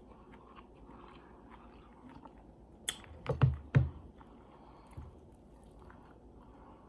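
Close-up mouth sounds of someone chewing food, mostly faint, with a short cluster of sharp, crunchy bites about three seconds in and a single small tap a second later.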